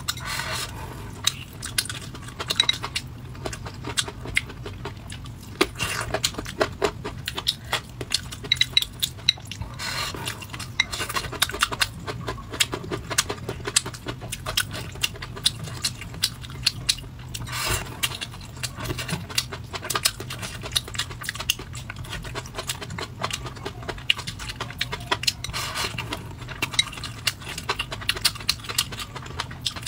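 Close-miked eating: chewing and mouth noises of a woman eating beef, pork and cucumber slices, with many short clicks and crunches, some from chopsticks on the bowl. A low steady hum runs underneath.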